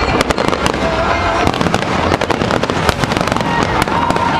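Fireworks display going off in a rapid barrage: a dense string of sharp bangs and crackling from aerial shells bursting in quick succession.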